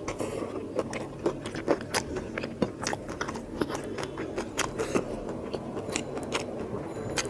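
Close-miked chewing of a mouthful of mutton curry, with wet mouth smacks and clicks coming irregularly, several a second.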